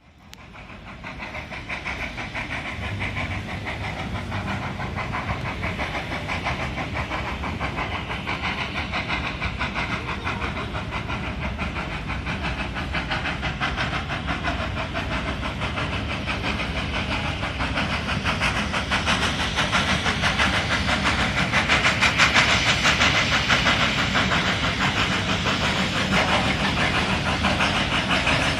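Small steam locomotive working, a rapid steady beat of exhaust chuffs over a hiss of steam, growing louder as it draws nearer.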